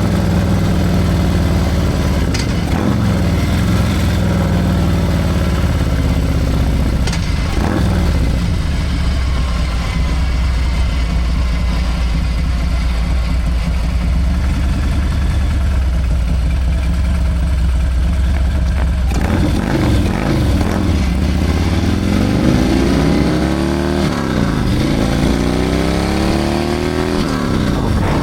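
Harley-Davidson Milwaukee-Eight 114 V-twin with a Screaming Eagle 447 torque cam, running steadily, then revving up and easing off several times in the last several seconds.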